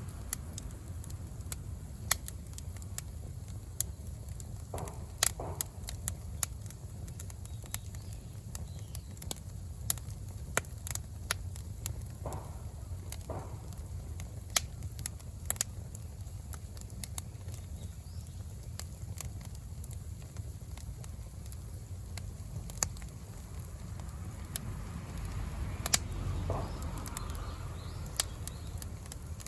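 Bonfire of firewood, cut wood and dry grass burning, crackling and popping irregularly over a steady low rumble of flames. The flames swell louder briefly near the end.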